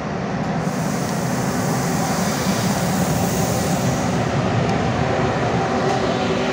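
Rail Polonia E6ACTd-106, a six-axle Newag Dragon 2 electric freight locomotive, passing close at speed with a train of open coal wagons: a steady rumble that grows louder, with a bright hiss as the locomotive goes by that fades after about four seconds, leaving the wagons rolling over the rails with a faint ringing tone.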